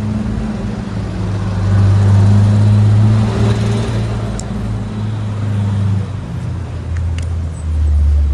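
Motorcycle engine running steadily with a low hum over street traffic. About six seconds in, the engine note drops lower.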